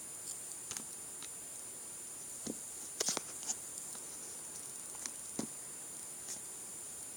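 Scattered light clicks of buttons being pressed, about ten of them irregularly spaced, with a quick cluster about three seconds in, over a faint steady high-pitched electronic whine.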